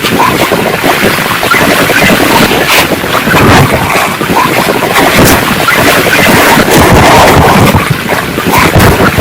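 Torrential rain and gusting storm wind, loud and unbroken, with wind buffeting the microphone.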